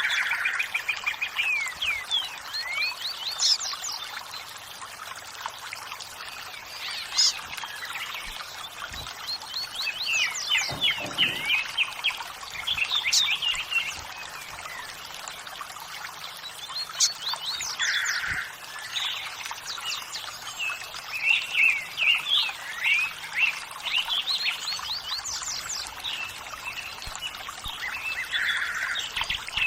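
Several birds chirping and singing in quick, short sweeping notes over the steady rush of running water.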